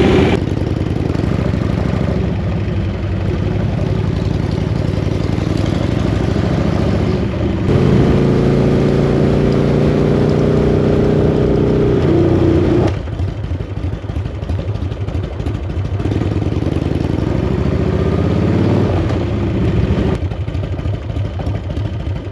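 Harley-Davidson V-twin motorcycle engine running on the road, now running smoothly on its reserve fuel. The engine note swells and holds steady for a few seconds from about eight seconds in, drops away sharply near thirteen seconds, then climbs in pitch again a few seconds later.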